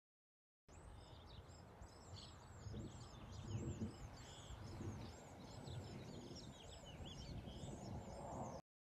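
Many birds chirping in quick succession, short arched chirps, over a low steady rumble of outdoor background noise. The sound cuts out completely for under a second at the start and again near the end.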